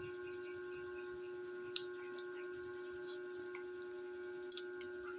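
A steady electrical-sounding hum with a few fixed higher tones, broken by a few small sharp clicks: one just before two seconds in and a quick pair about four and a half seconds in.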